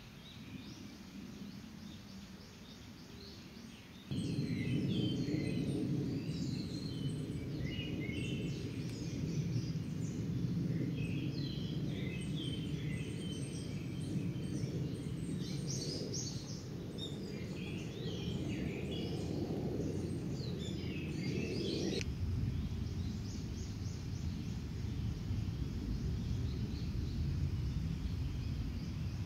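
Outdoor ambient noise: a steady low rushing that turns abruptly louder about four seconds in and changes again about two-thirds of the way through. Over it come many short, high bird chirps during the louder stretch.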